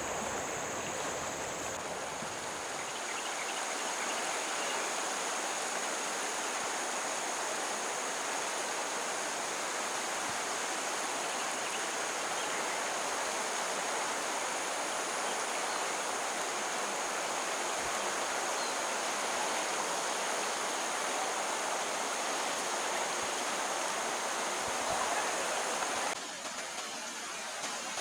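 Water of a stream flowing steadily, an even rushing wash of noise with a thin, steady high-pitched tone above it; the sound drops suddenly and turns thinner near the end.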